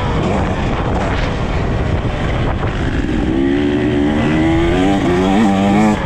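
KTM EXC 300 TBI two-stroke engine running hard under throttle, its pitch rising and falling. In the second half it holds a steady high pitch, with a brief dip shortly before the end.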